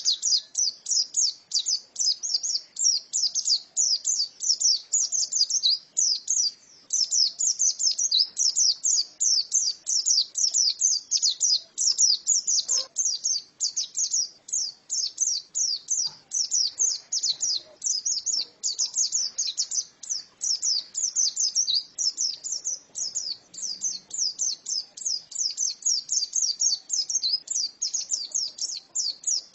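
Female white-eye (pleci) singing a long, fast twittering song of high chirps, almost without pause and breaking off only briefly a couple of times.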